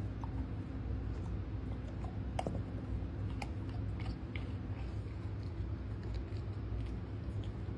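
A dog crunching and chewing a frozen cucumber, in irregular crisp bites, the loudest about two and a half seconds in, over a steady low hum.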